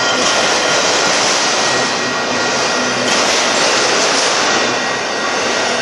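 Union Pacific manifest freight train's cars rolling past, a steady loud roar of steel wheels on rail with a faint high-pitched ring.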